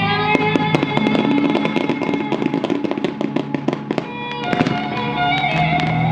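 Fireworks going off in rapid crackling pops, with a stronger bang about four and a half seconds in, over the show's music soundtrack.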